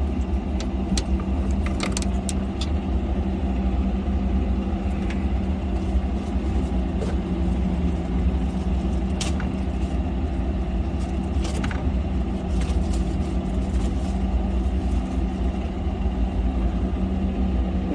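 Diesel engine idling steadily with a constant low hum, and scattered light clicks and knocks over it.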